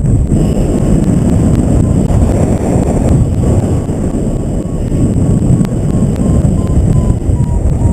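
Airflow of paragliding flight buffeting the microphone: a loud, steady, rumbling wind noise.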